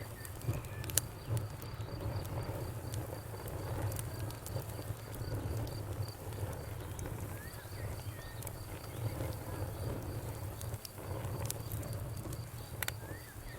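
Wood fire in a fireplace crackling, with sharp scattered pops over a steady low rumble. A faint high chirp repeats evenly in the background.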